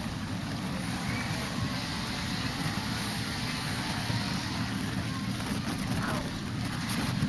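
Steady road traffic going by, with wind rumbling on the microphone.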